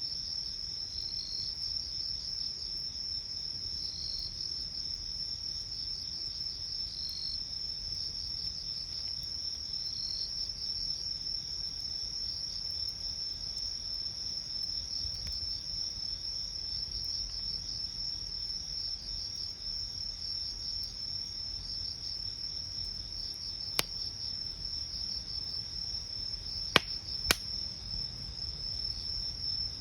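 Insects trilling steadily in a fast, pulsing high chorus, with a fainter chirp every few seconds in the first half. A campfire crackles beneath it, giving three sharp pops, one after about 24 seconds and two close together near the end.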